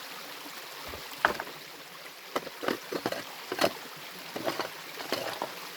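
Irregular knocks and clatter of loose rock being handled and set down in a stony stream bed, about eight sharp hits, the loudest a little over a second in, over the steady rush of the stream.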